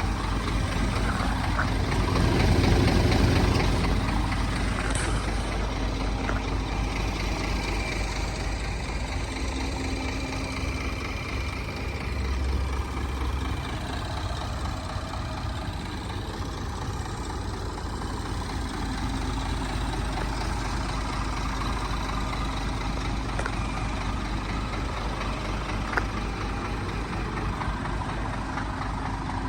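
Scania R500 truck's V8 diesel engine idling steadily. It swells briefly louder about three seconds in, and there is a single sharp click near the end.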